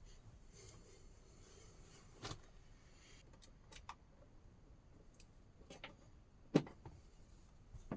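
Scattered light clicks and knocks over a faint background, the loudest a sharp knock about six and a half seconds in.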